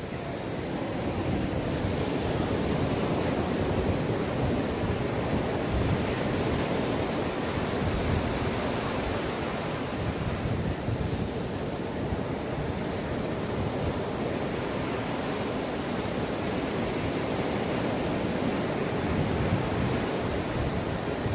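Ocean waves breaking and washing up the shore, a continuous rush that swells and eases slowly, with some wind on the microphone.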